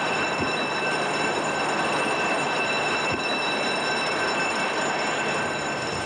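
Steady loud rushing noise with a thin high whine above it and a couple of faint low knocks.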